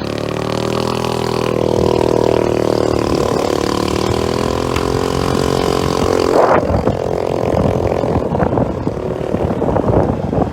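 Suzuki Skydrive 125 scooter's single-cylinder four-stroke engine pulling away and accelerating, its pitch rising over the first couple of seconds and then holding steady under way. From about six seconds in, gusty wind noise on the microphone mixes in.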